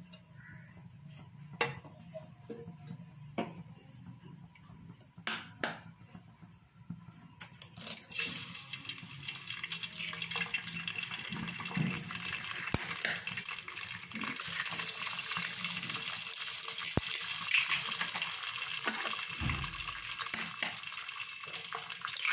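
A few sharp taps as eggs are cracked, then, about a third of the way in, eggs sizzling as they drop into hot oil in a frying pan, a steady hiss that carries on.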